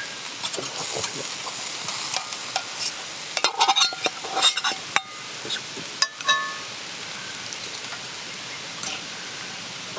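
Oil sizzling steadily in a pan over a campfire, with a metal utensil stirring, scraping and clinking against the pan, most busily between about three and a half and five seconds in and once more about six seconds in.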